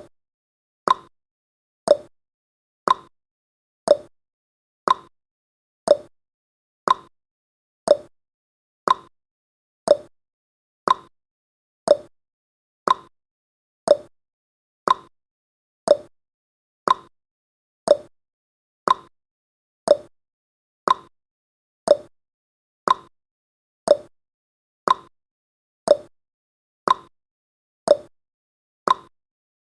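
Countdown timer's ticking sound effect, one short sharp tick about every second, each dying away quickly.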